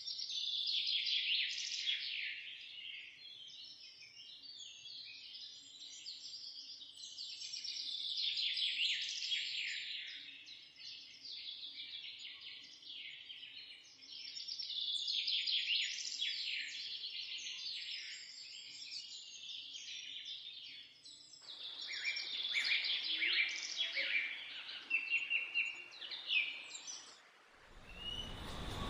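Songbird singing in long phrases of rapid, high chirping notes, a new phrase starting every six or seven seconds, ending in a few separate short notes.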